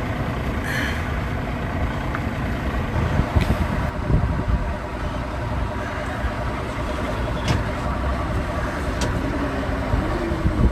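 Diesel engine of a mobile crane running steadily under load as it readies to lift, with a slight rise in pitch near the end.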